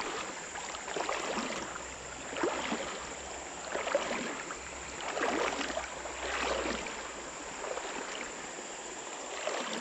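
Legs wading through a shallow creek, the water sloshing and splashing in a surge with each stride, roughly one step every second or so.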